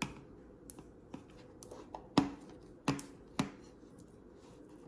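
Knife and avocado handling on a plate: a few sharp knocks with brief low ringing, the loudest about two seconds in and two more within the next second and a half, with small clicks in between, as avocado is sliced onto matzah.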